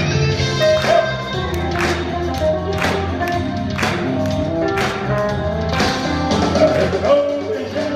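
Live band playing an instrumental passage with no singing: held chords with a sharp drum hit about once a second.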